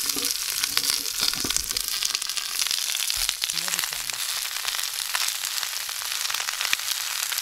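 Chopped onions sautéing in hot olive oil in a skillet: a steady frying sizzle scattered with small crackling pops, the oil hot enough to fry them.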